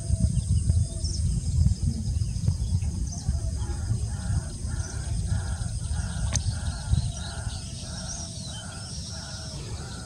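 A bird giving a steady series of harsh, caw-like calls, about two a second, starting about three and a half seconds in, with faint high chirps of small birds behind it. A low rumble sits on the camera microphone through the first half.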